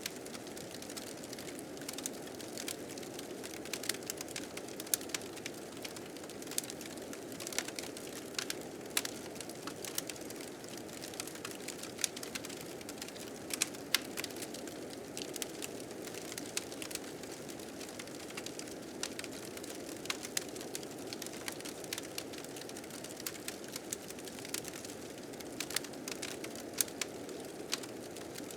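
Wood fire crackling with frequent irregular sharp pops, over the steady rush of blizzard wind.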